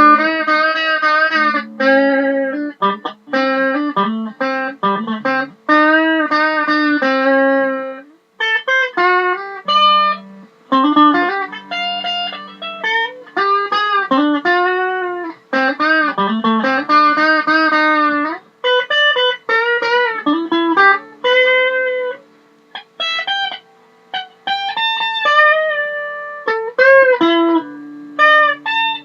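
Fender Roadhouse Stratocaster electric guitar playing a lead line of single notes, with several notes bent up and down in pitch.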